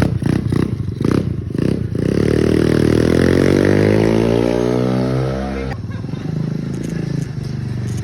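Motorcycle engine revved in a quick series of short blips, then held in a long rev whose pitch slides gradually down. About six seconds in it drops abruptly to a lower, steady run.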